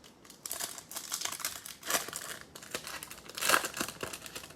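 Foil trading-card pack wrapper being torn open and crinkled, a run of irregular crackles with the loudest crinkles about two seconds in and again about three and a half seconds in.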